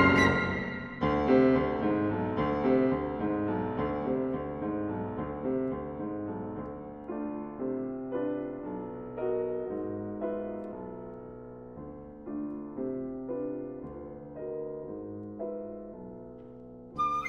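Music: a soft piano passage, notes struck one after another and left to ring, growing gradually quieter toward the end.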